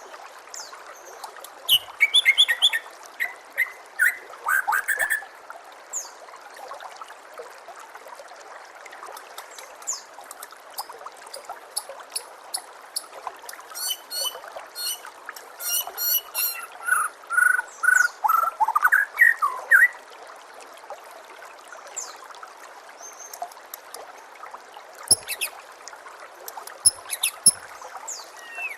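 Songbirds singing in bursts of whistled, chirping phrases over a steady trickle of running water. The busiest stretches are about a second in and from about halfway to two-thirds through, with scattered short notes in between.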